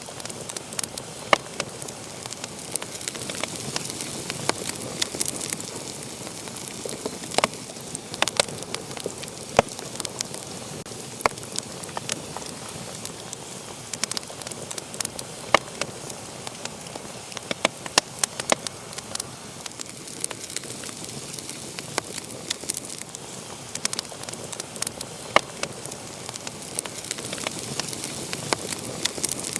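Wood fire burning in a fireplace, with a steady hiss under frequent irregular crackles and sharp pops.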